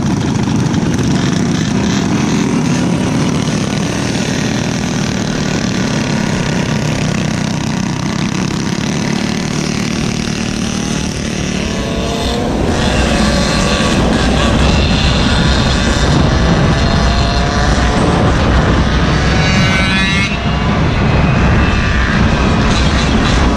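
Small gasoline engines of mini bikes and Go-Ped scooters running during a group ride. In the second half the engine pitch rises repeatedly as the throttle is opened.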